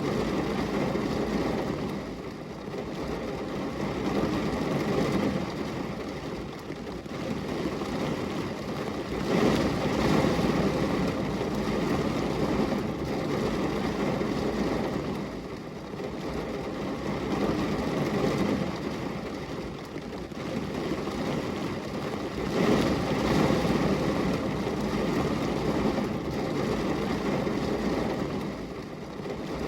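Rain falling on a glass window, a dense steady hiss with a low rushing undertone that swells and eases every few seconds.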